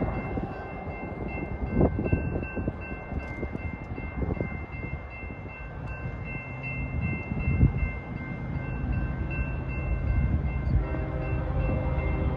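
Wind gusting on the microphone over the rumble of a Norfolk Southern freight train approaching. A few seconds before the end, a steady chord of several pitched tones sets in, in the manner of a locomotive horn.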